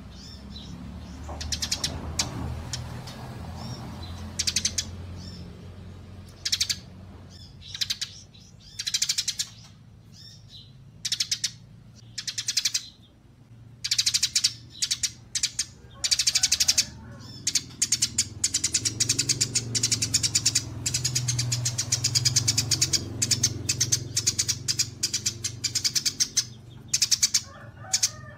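Small songbirds singing in rapid, high-pitched chattering trills, phrase after phrase in quick succession, over a steady low hum.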